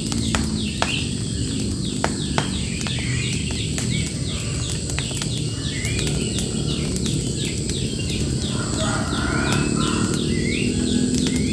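Birds singing and calling: a fast, steady run of short descending notes with a few rising chirps over it. A few sharp cracks come in the first couple of seconds, over a steady low rumble.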